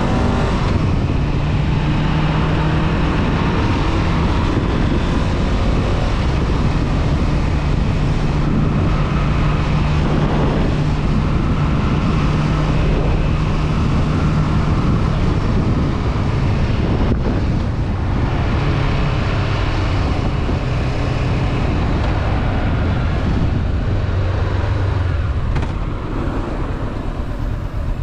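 Honda CB500F parallel-twin engine running steadily at cruising speed, with wind noise on the helmet-mounted microphone. In the last few seconds the engine note drops lower and quieter as the bike eases off.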